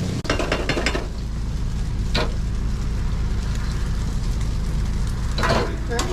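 Food-truck kitchen cooking: food sizzling with a few clatters of utensils, a cluster about half a second in, one about two seconds in and another near the end, over a steady low machine hum.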